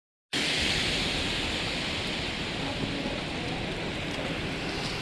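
Steady hiss of rain with a low rumble underneath, cutting in abruptly a moment in.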